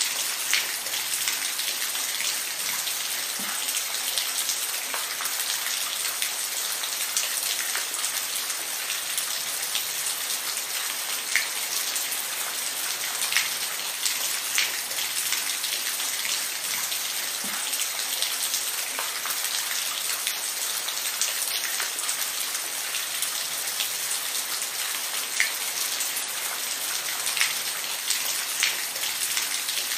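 Steady rainfall, an even hiss of rain with scattered sharp drips and patters of individual drops landing on a surface.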